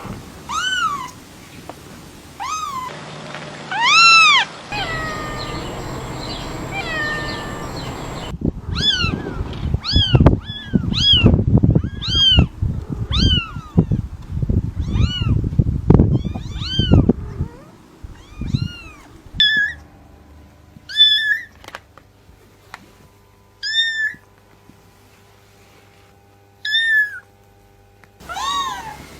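Cat meowing over and over: short high calls that rise and fall in pitch, coming about once a second through the middle, then more spaced out near the end. A low rumbling noise runs under the calls in the middle stretch.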